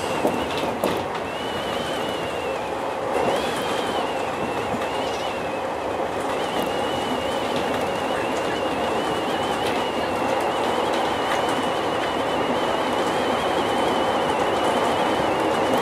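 201 series electric commuter train running on the rails, heard from the driver's cab: a steady rumble of wheels on track with a thin, wavering high whine over it.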